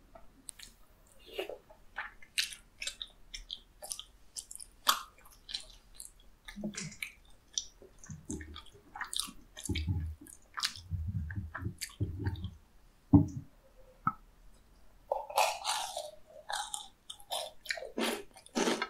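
Close-miked eating sounds: chewing with many short wet mouth clicks and smacks as tteokbokki rice cakes and soup-soaked fried snacks are eaten, with a run of low thumps around the middle.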